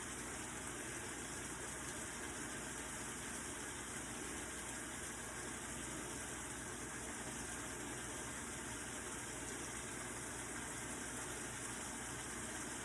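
Shrimp frying in a pan: a steady, even sizzle.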